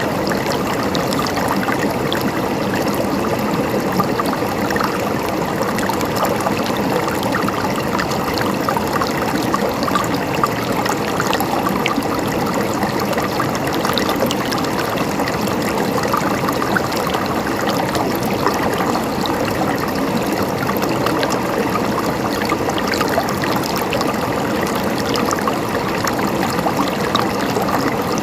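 River water flowing steadily over rocks, a continuous rushing and babbling with small splashes.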